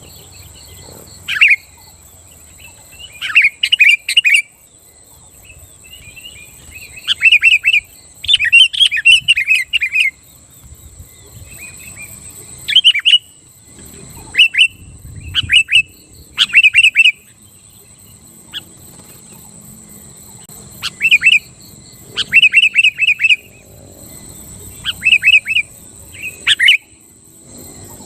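Sooty-headed bulbul (kutilang) singing in loud, chattering bursts of short, quickly repeated notes, about a dozen phrases separated by short pauses. A steady high thin buzz runs underneath.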